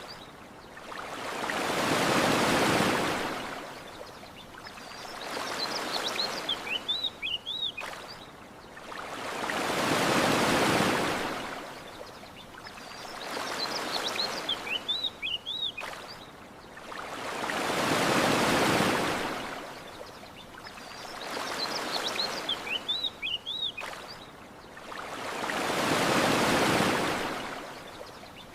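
Ocean waves washing onto a shore, each wave swelling and fading about every eight seconds. Short high bird chirps come in the lulls between waves, and the whole pattern repeats like a loop.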